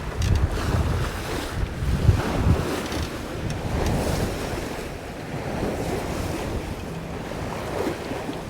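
Wind gusting across the microphone over the wash of waves along a sailing yacht's hull while it sails close-hauled.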